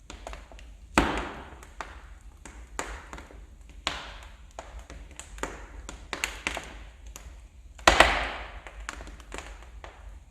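Wood fire in a fireplace crackling: irregular sharp snaps of burning logs, with two louder pops, one about a second in and one near the end.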